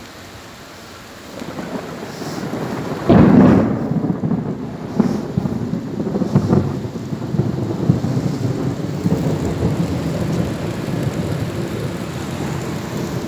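Rain falling, with a loud low rumble that sets in suddenly about three seconds in and then rises and falls.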